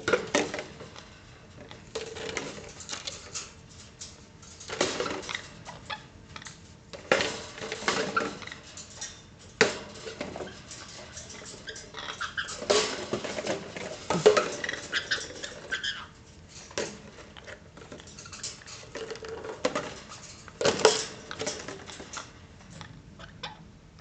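Irregular bursts of clattering and rattling from small hard objects being knocked about, with sharp clicks, coming in clusters every couple of seconds.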